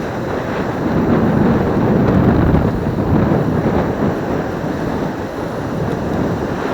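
Surf washing on the beach, mixed with wind on the microphone, swelling louder between one and three seconds in.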